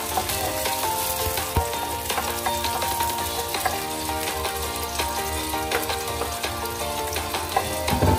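Chopped onion and garlic sizzling in oil in a stainless steel wok, with a wooden spatula scraping and tapping against the pan as they are stirred. Background music plays underneath.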